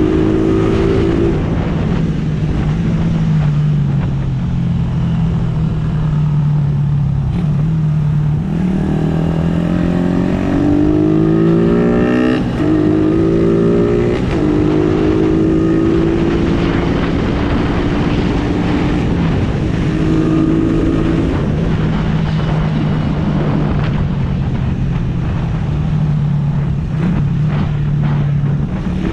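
Suzuki Raider R150's single-cylinder four-stroke engine running at a steady cruise with wind on the microphone. About nine seconds in it revs up through the gears, its pitch climbing and then dropping at two quick upshifts, before settling back to a steady note.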